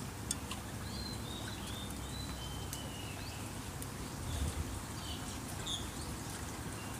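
Small birds chirping in short calls, a cluster in the first half and a few more near the end, over a steady low outdoor hum with a few sharp clicks.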